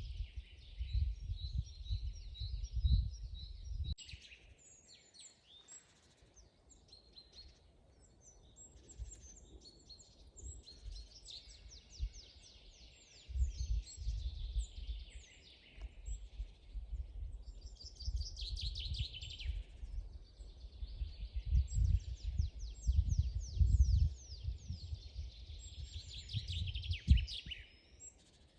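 Several songbirds singing, with rapid chirps and trills overlapping throughout. Underneath, a low rumble comes and goes in bursts.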